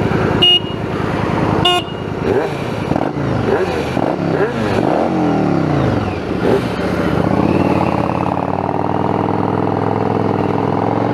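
Motorcycle engines accelerating on the road, their pitch rising and dropping several times through gear changes, then settling into a steady cruise. Two short high-pitched beeps come near the start.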